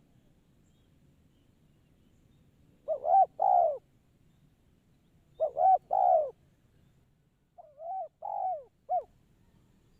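Spotted dove (tekukur) cooing: two loud three-note coo phrases a few seconds apart, then a quieter, longer phrase near the end.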